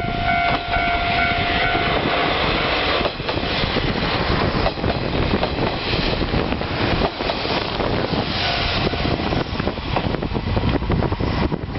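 KiHa 147 diesel railcar pulling into the station: steady rumble and rail noise, with a high squealing tone that stops about two seconds in.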